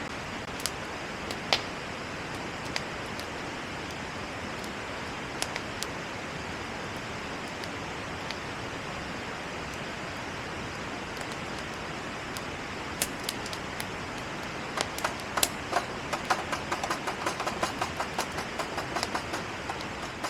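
Steady rush of flowing water, with a few sharp clicks in the first half and a run of rapid crackling over the last five seconds or so.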